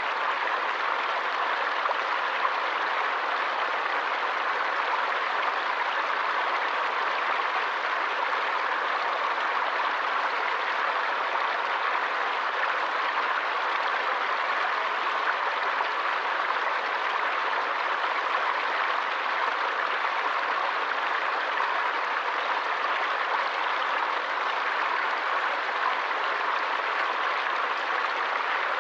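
Running water of a forest stream: a steady, even rush with no breaks.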